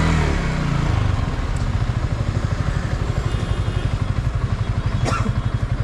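Yamaha R15 V3's single-cylinder engine with its revs dropping in the first second, then idling with a steady, quick pulse. A short click about five seconds in.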